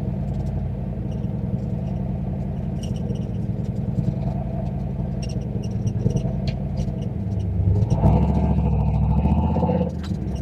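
Turbocharged 351 Windsor V8 of a Fox-body Mustang running as the car is driven, with light ticks and clatter over the steady engine drone. About eight seconds in the engine gets louder for a couple of seconds under more throttle, then drops back.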